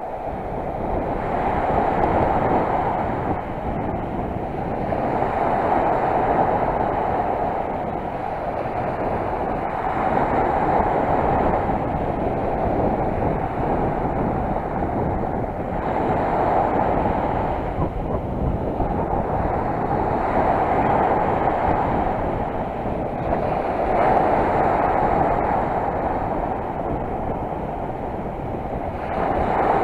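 Sea surf washing on the shore, an even rushing noise that swells and fades about every four to six seconds as the waves come in.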